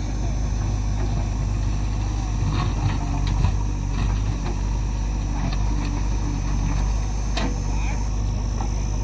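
Diesel engine of a JCB backhoe loader running steadily under work, with a few sharp knocks and clanks about three seconds in and again near the end.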